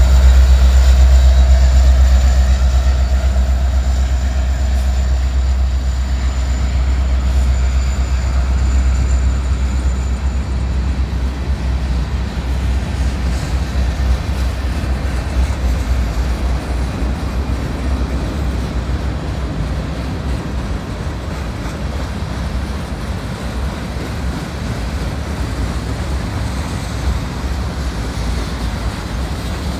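A Norfolk Southern diesel freight locomotive passes close by, its deep engine drone and a high whine fading over the first ten seconds as it moves away. It is followed by the steady rolling rumble of covered hopper and tank cars going past.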